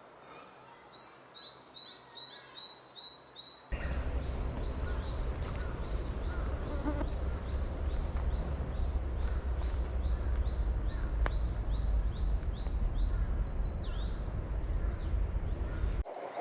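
A songbird singing a fast, even run of short, high notes, each sliding downward, about three or four a second. From about four seconds in, a loud, steady low rumble lies under the song.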